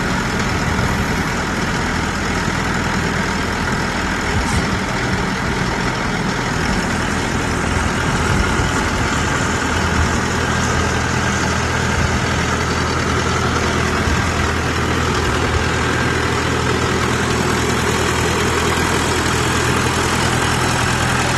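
Engine of a water-well drilling rig running steadily, with a constant low hum under a wide mechanical noise.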